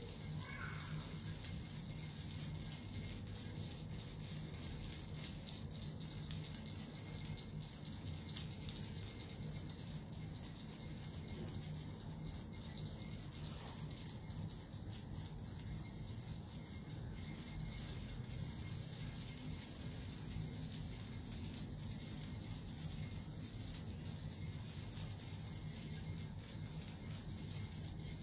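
Suzu, small Japanese jingle bells, shaken continuously with a metal rattle, giving a steady, dense jingling with no breaks.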